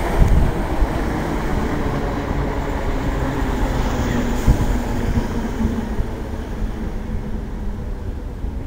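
Electric multiple-unit passenger train running past along the platform, its wheels rumbling on the rails, with a few sharp knocks early and again around four and a half seconds in. The rumble fades over the last few seconds as the train draws away.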